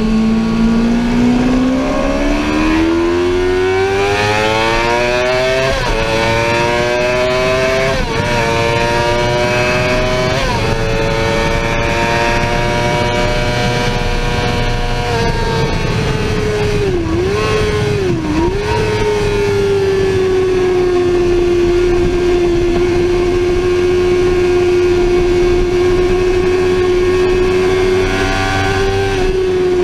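Sportbike engine accelerating hard through the gears with three quick upshifts, then held at high revs. Two brief throttle dips follow, and it settles into a steady, slightly lower drone.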